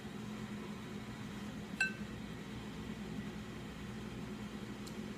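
A single light clink of glass or a dish, ringing briefly, about two seconds in, over a steady low hum.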